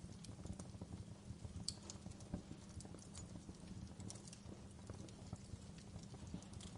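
Wood fire crackling: irregular small pops and snaps, a few sharper ones, over a low steady rumble.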